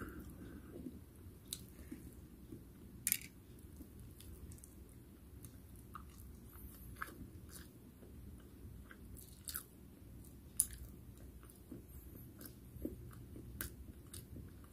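A person chewing and biting fried food close to the microphone, with scattered sharp crunches and clicks, the loudest about three seconds in and again about ten and a half seconds in.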